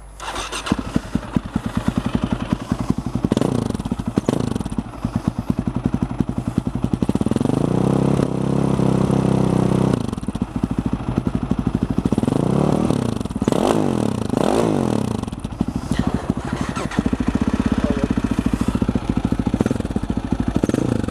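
A Husaberg's four-stroke single-cylinder engine starts at the very beginning, then is revved in neutral: one longer held rev in the middle and a run of quick throttle blips later, idling between. It is being checked for oil blow-by, which the owner puts down to too much oil being sucked through the cylinder-head breathers into the airbox when the engine decelerates.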